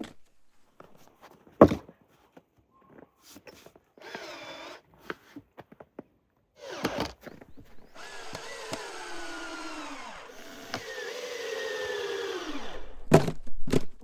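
A small electric motor runs briefly, then again for about six seconds, its pitch wavering and sinking as if under load. Sharp knocks come near the start and just before the end.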